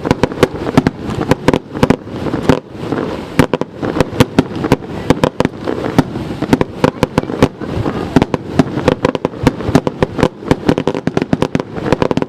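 Fireworks going off in quick succession: sharp, irregular bangs and cracks, several a second and overlapping, with no break.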